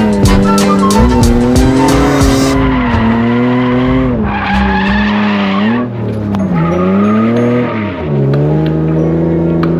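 Drift car engine running at high revs, rising and falling as the throttle is worked, with its tyres squealing as it slides; the revs drop sharply twice near the end.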